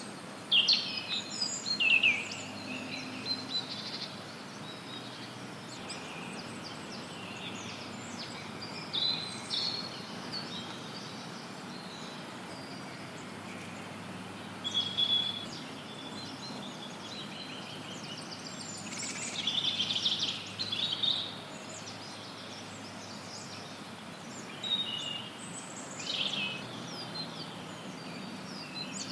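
Forest songbirds calling and chirping in scattered bursts over a steady, even hiss of added background noise.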